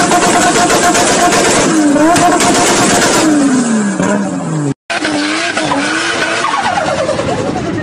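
Tuned car engine revving hard, its pitch falling away several times. After a sudden break, a car drifts with its engine revving up and down over the hiss of skidding tyres.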